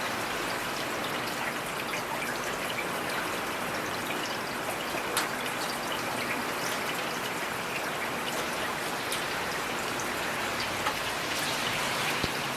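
Heavy rain falling steadily, an even hiss with the small pattering clicks of individual drops striking hard surfaces.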